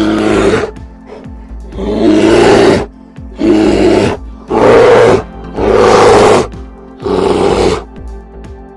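An animal giving six harsh, rasping calls about a second apart, over background music.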